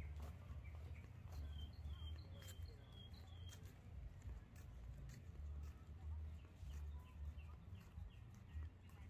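A bird giving a quick run of short, high chirps, about six of them between one and a half and three and a half seconds in, with a few fainter ones later. Under it, a low rumble of wind on the microphone and the light scuff of footsteps in flip-flops.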